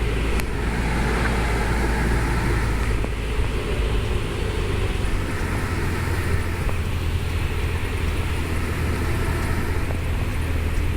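Cessna 172's piston engine and propeller droning steadily in the cockpit on the landing approach, a little lower from about three seconds in.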